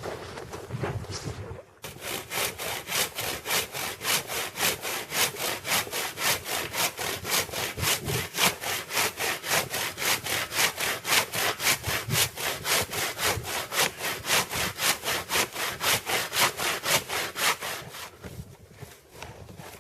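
Hand saw cutting through a log, fast, even back-and-forth strokes. It starts about two seconds in and stops shortly before the end.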